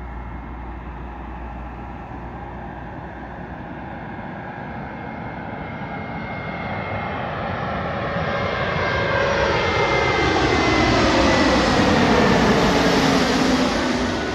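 Jet airliner on landing approach passing close by. Its engine noise and a steady whine swell to their loudest about ten seconds in, with tones sweeping down in pitch as it passes, then begin to fade near the end.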